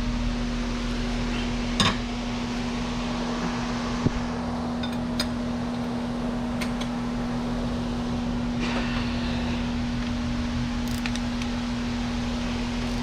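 A steady mechanical hum, like a fan running, with a few light metallic clicks and scrapes of hand tools as spark plugs are being unscrewed.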